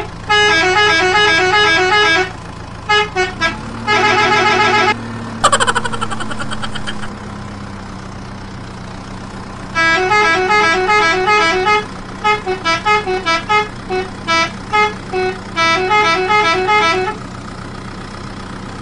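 Electronic musical-horn tune of fast beeping notes in several runs, with a falling whistle about five seconds in, over a steady low engine-like hum.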